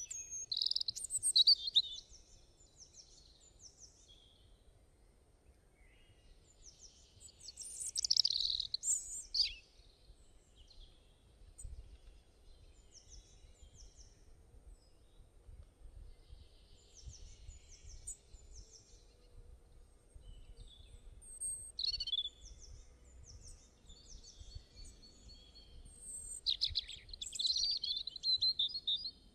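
Songbirds chirping and singing in short bouts of quick high notes, the liveliest at the start, about eight seconds in, near twenty-two seconds and near the end, with scattered fainter chirps between over a low background rumble.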